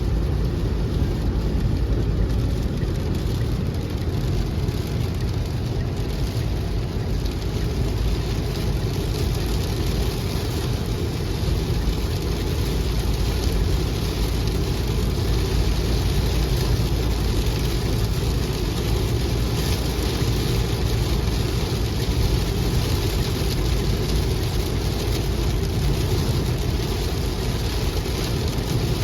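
Heavy rain falling, a steady rush of noise with a deep low rumble.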